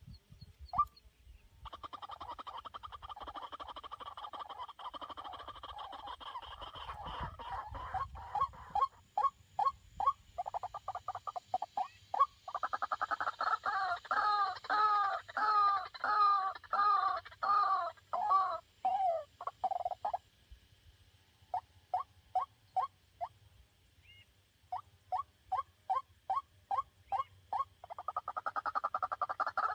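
White-breasted waterhen calling in long runs of repeated croaking notes. Some runs run together into fast rattling series, others are spaced out, and the calls are loudest in the middle and again near the end.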